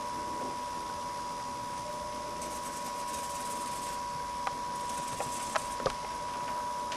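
Faint bursts of rapid, dry riffling and rattling, twice, with a few sharp clicks, over a steady hiss and hum. The listeners take the riffling for unseen playing cards being shuffled.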